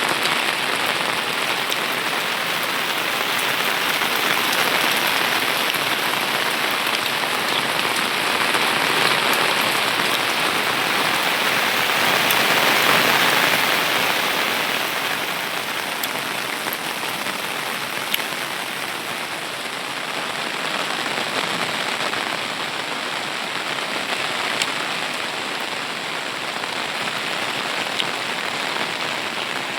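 Steady rain falling hard, swelling louder for a moment midway, with a few louder single drops standing out near the end.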